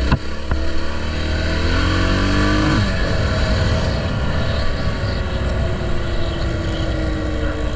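Honda XR650L's single-cylinder four-stroke engine under way, pulling up in pitch for about two seconds, then dropping as it shifts up, then running steadily with the pitch slowly sinking, over a constant rush of wind noise.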